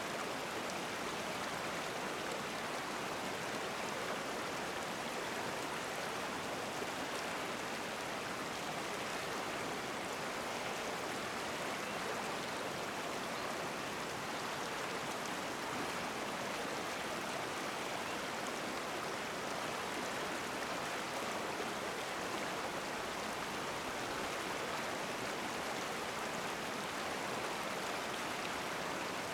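Flowing stream water, a steady rushing without pause.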